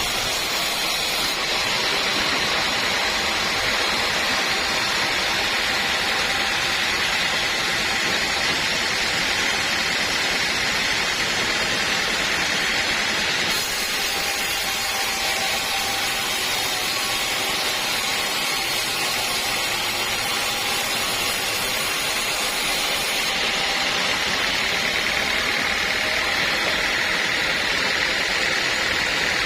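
Sawmill machinery running, a steady, even noise with no breaks.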